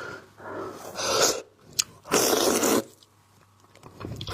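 Close-miked mouth noises of eating raw seafood: short breathy sucking bursts and a click, the loudest and longest burst about two seconds in.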